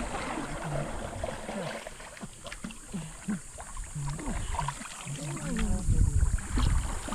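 Water sloshing and wooden knocks around a balsa log raft on a river, with faint voices in the background.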